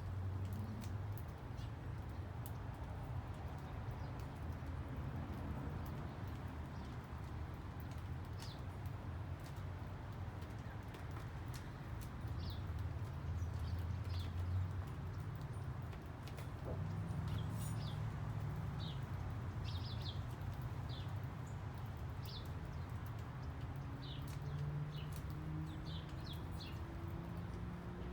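Small birds chirping in short, scattered calls over a steady low rumble. Near the end a faint low hum rises slowly in pitch.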